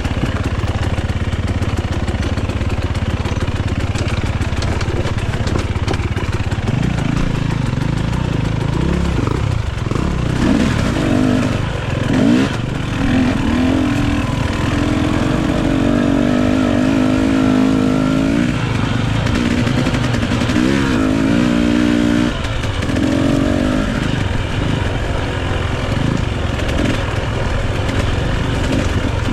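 Dirt bike engine running under load off-road, its pitch rising and falling again and again as the throttle is worked.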